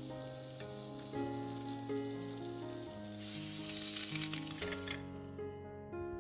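Chicken sausages sizzling as they fry in butter in a pan, with soft background music; the sizzling fades out about five seconds in, leaving the music.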